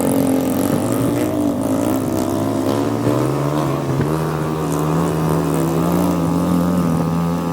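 A vehicle engine running; its pitch rises about three seconds in and then holds steady.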